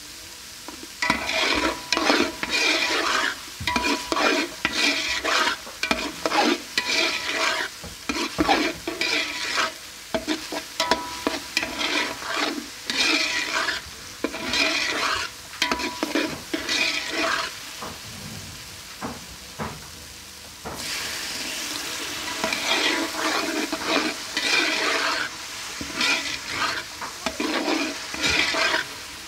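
Onion-tomato masala frying in oil in a steel pot, sizzling, while a metal spatula stirs and scrapes it against the pot bottom in repeated strokes. The sizzle becomes steadier and louder about two-thirds of the way through.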